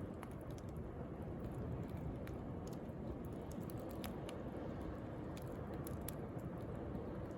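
Wood bonfire crackling with irregular sharp pops, over a steady low rush of sea waves.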